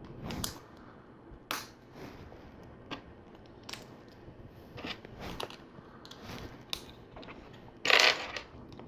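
Plastic LEGO bricks clicking and clattering as pieces are handled and pressed together, with light separate clicks about once a second and a louder clatter lasting about half a second near the end.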